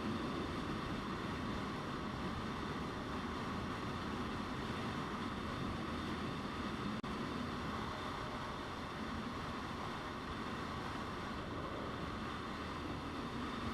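Motorcycle riding at speed: a steady rush of wind over the microphone with the engine and road noise underneath. There is a brief click about halfway through.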